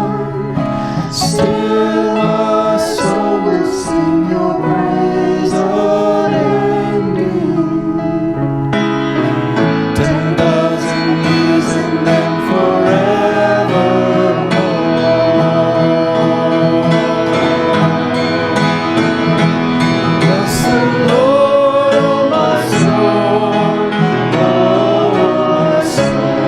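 Music: voices singing a hymn or worship song with instrumental accompaniment.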